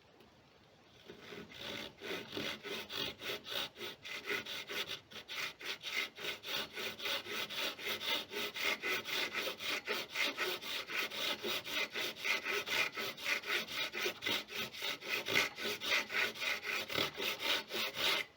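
Hand saw cutting through wood in quick, even back-and-forth strokes, starting about a second in and stopping abruptly at the end.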